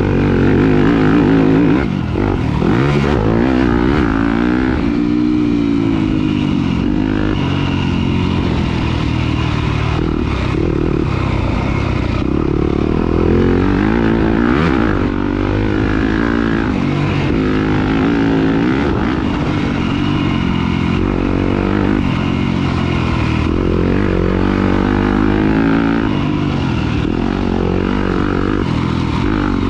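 Off-road dirt bike engine racing around a track, revving up and falling back over and over as the rider works the throttle and changes gear.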